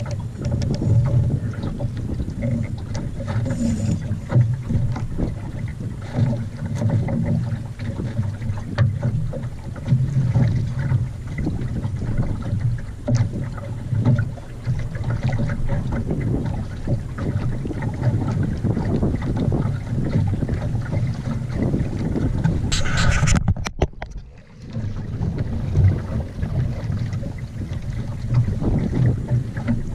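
Wind buffeting the microphone aboard a small sailboat: a gusty low rumble that rises and falls. About 23 seconds in there is a short rustle, then a brief drop in level.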